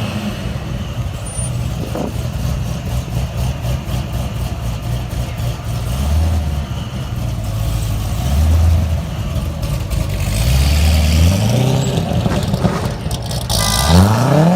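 Supercar engines running at low revs, the pitch shifting up and down, with one engine revving up sharply near the end.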